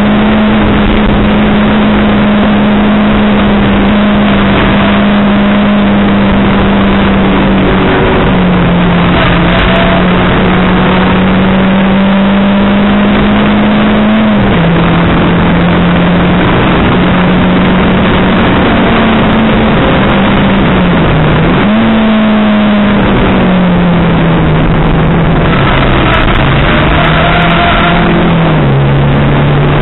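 Race car engine heard from inside the cabin, held at high revs, its note climbing slowly and dropping at each gear change, about eight and fourteen seconds in, with a deeper dip and recovery about twenty-one seconds in. Steady road and wind noise runs underneath.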